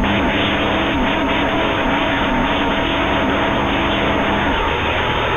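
CB radio receiver hissing with static on an open channel, carrying a low wavering whistle and a higher steady whistle from overlapping carriers. The low whistle stops about four and a half seconds in.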